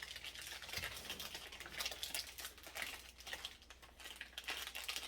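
Plastic wrap crinkling and crackling in quick, irregular ticks as a block of cheese is re-wrapped by hand.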